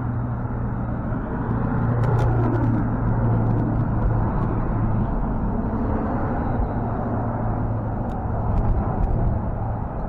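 Engine of a Ford F-550 tow truck running steadily, with a few faint clicks over it.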